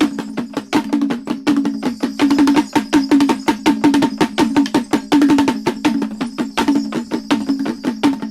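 T'boli drumming: a fast, steady rhythm of sharp pitched strikes, several a second.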